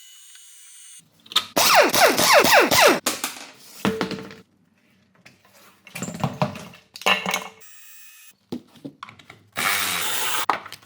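Short bursts of workshop tool noise: a power tool whirring and winding down in falling sweeps, then knocks and scraping. The bursts start and stop abruptly.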